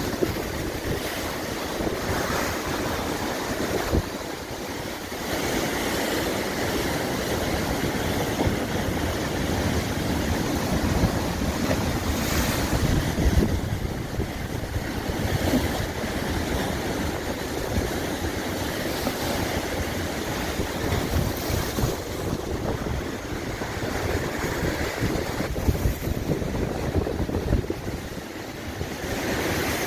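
Sea surf washing on the shore, with gusting wind buffeting the microphone.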